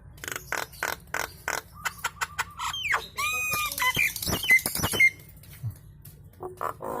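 Nias hill myna chattering: a quick run of harsh clicking notes, then loud whistled calls with sharp bends in pitch, going quiet for a moment before calling again near the end.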